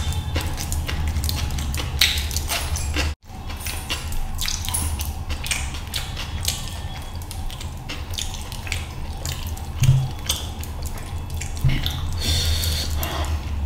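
Close-up wet chewing and lip-smacking from a man eating fish curry and rice by hand, with squelching of curry-soaked food between his fingers, over a steady low hum. The sound cuts out briefly about three seconds in.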